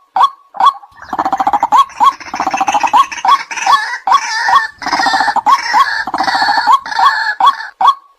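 White-breasted waterhen calls: loud "kwak" notes repeated evenly about twice a second. About a second in they break into a dense chorus of overlapping croaking and gurgling calls that lasts several seconds, then return to the steady notes near the end.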